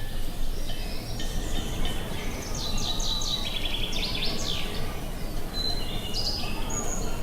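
Outdoor ambience of steady wind noise with birds chirping and trilling over it, a busy run of quick repeated notes in the middle and a few short whistled notes near the end.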